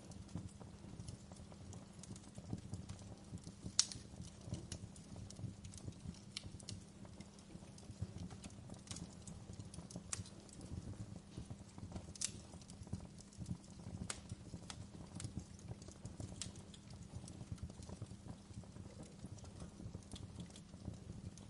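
Wood fire burning in a fireplace: irregular sharp crackles and pops from the firewood over a steady low rumble, with a louder pop about four seconds in and another about twelve seconds in.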